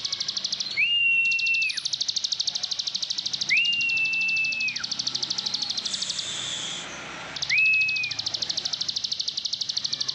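Plain prinia singing: a fast, even run of buzzy ticking notes, about ten a second, breaking off briefly twice. Three long, steady whistled notes, lower in pitch, sound over it.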